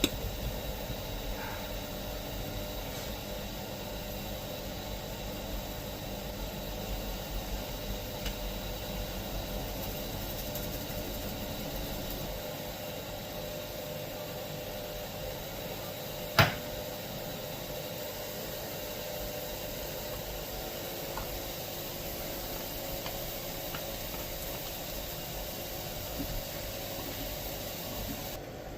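Steady mechanical hum with a hiss over it, and a single sharp click about halfway through.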